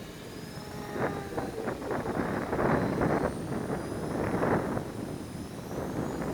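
Wind gusting hard across the microphone, loudest in the middle. Under it is the thin whine of the Durafly Tundra RC plane's electric motor, rising and falling in pitch.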